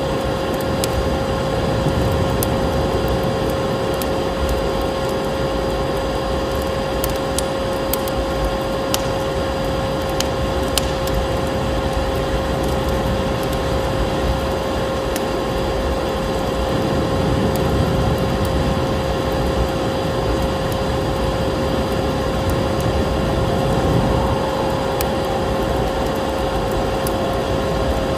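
Steady vacuum cleaner motor drone with a constant whine, layered with scattered crackles and pops of a wood fire and the steady rush of snowstorm wind.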